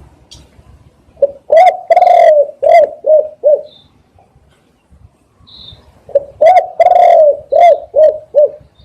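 Spotted dove cooing: two phrases of about five or six notes each, with a longer drawn-out coo second in each phrase, the phrases about three seconds apart. Faint high chirps of a small bird come between them.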